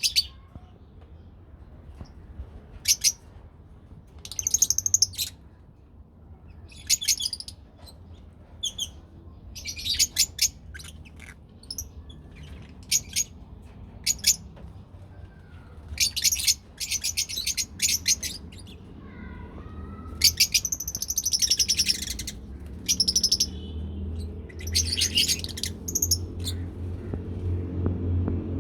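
Lovebirds chirping in short, shrill bursts of half a second to two seconds, coming every second or few. A low steady hum runs underneath and grows louder near the end.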